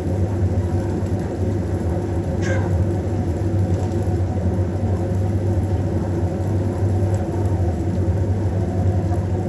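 A steady low motor drone with a constant hum. About two and a half seconds in, one short chirp falls quickly in pitch.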